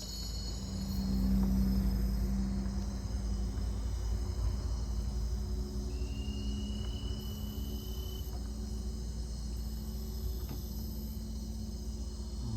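Insects chirring steadily in high tones over a low, steady rumble and hum that starts as the sound begins.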